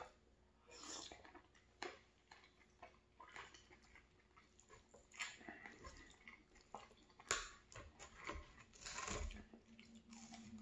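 Quiet chewing and mouth sounds of a person eating stew, with a few sharp clicks of a metal fork against the aluminium foil tray.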